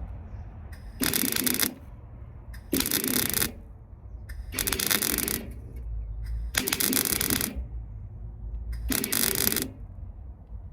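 Welder laying tack welds on a steel repair patch in a car sill: five short crackling bursts, each under a second, about two seconds apart.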